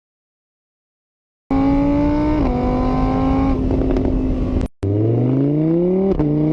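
After about a second and a half of silence, a car engine runs at a steady pitch, dips, cuts out for an instant, then revs up in a rising whine with a short drop and climb again near the end, like a shift into the next gear.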